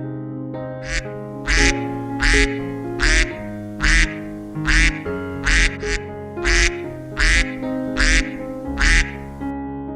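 A duck quacking about a dozen times at an even pace, over background music.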